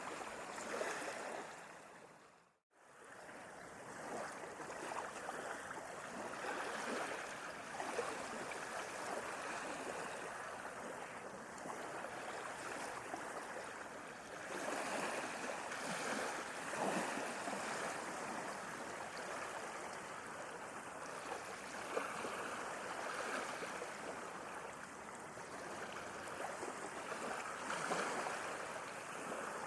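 Sea waves washing in a steady rush of water, swelling and easing every few seconds. About two and a half seconds in, the sound fades briefly to silence and then back in.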